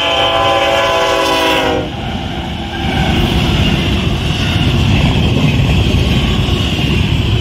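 Freight locomotive's multi-chime air horn sounding a chord that drops slightly in pitch as the engine passes and cuts off about two seconds in. Then the double-stack intermodal cars rush by at about 60 mph with a steady, loud roar of wheels on rail.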